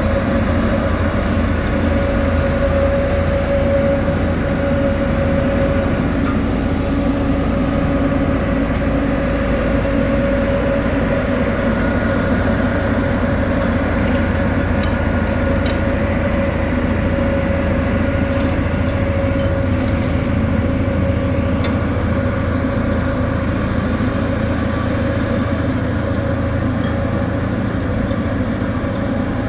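Heavy diesel road-construction machinery running steadily, with a constant whine over the engine sound and a few faint clicks about halfway through.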